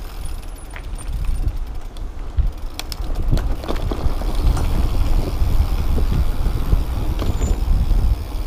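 Mountain bike descending a rough downhill trail: wind buffeting the microphone as a heavy low rumble, with frequent short knocks and rattles from the bike over bumps, getting louder from about three seconds in as the speed builds.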